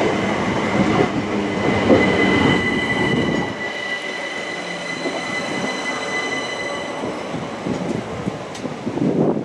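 Class 375 Electrostar electric multiple unit drawing into the platform and slowing to a stop, with a steady high squeal from its wheels and brakes. The heavy rumble of the train eases after about three and a half seconds, and the squeal dies away a little later.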